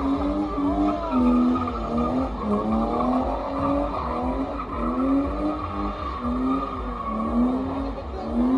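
A car drifting under power: its engine revs rise and fall back about once a second, over a steady tyre squeal.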